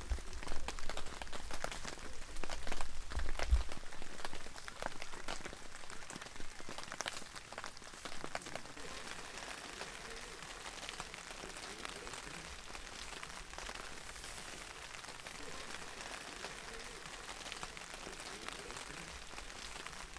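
Heavy rain falling steadily in a forest, with many single drops striking close by; the drop strikes are loudest and densest in the first several seconds before settling into an even hiss. A low rumble underneath stops about three and a half seconds in.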